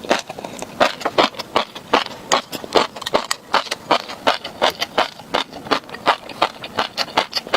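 Close-miked chewing of tobiko (flying fish roe): a quick, irregular run of crisp pops and crunches, several a second.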